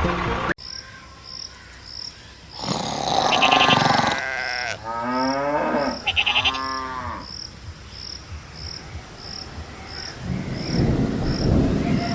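Drawn-out animal calls, several in a row, bending in pitch, like cattle mooing. Under them a faint light ticking repeats about every two-thirds of a second.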